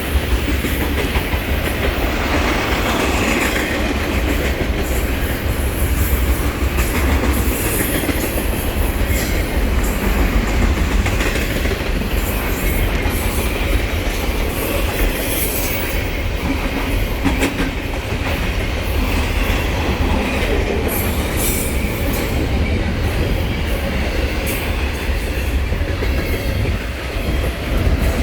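A train rolling steadily past, its wheels clicking over the rail joints above a continuous deep rumble.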